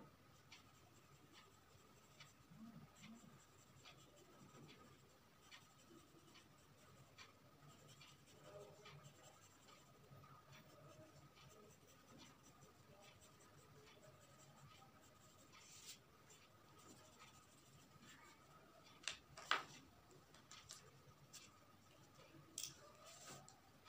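Faint strokes of a drawing tool scratching on paper, irregular and quiet. A couple of sharper taps come about three-quarters of the way through, over a faint steady high tone.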